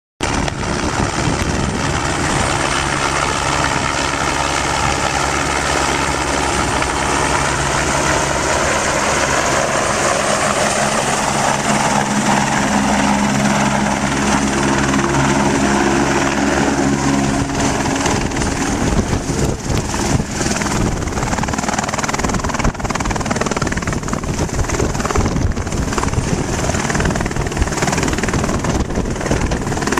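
Helicopter arriving close by: a loud, steady hum of engine and rotor, which turns into a rougher, flickering rush about two-thirds of the way through.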